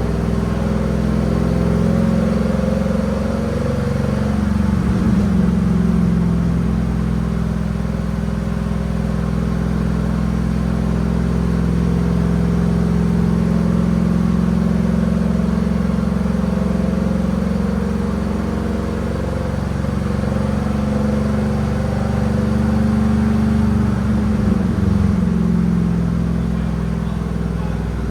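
A GMC Sierra pickup's 5.3-litre V8 running on headers. The exhaust note holds steady, with brief small shifts in pitch about five seconds in and again near the end.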